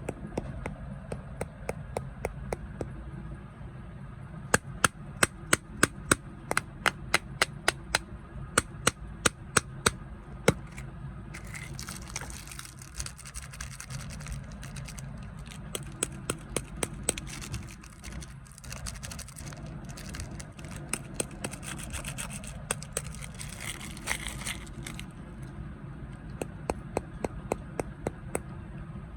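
Snack packaging being handled for ASMR: a long run of sharp clicks or taps, about two to three a second, with plastic wrapper crinkling through the middle stretch.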